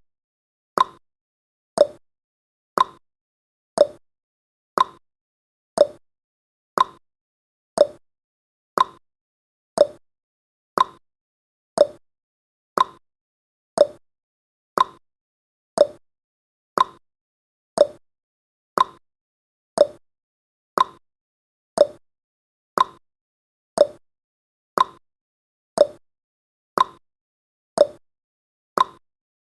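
Clock-style ticking sound effect of a countdown timer: short, sharp ticks at a steady one per second, with silence between them.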